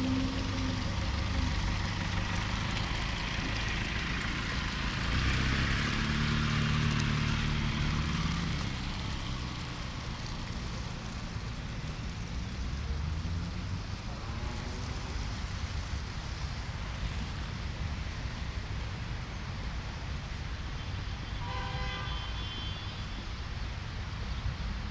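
City street traffic: motor vehicles driving past, one passing closer and louder about five to eight seconds in, and another engine speeding up a few seconds later. Near the end comes a short horn toot.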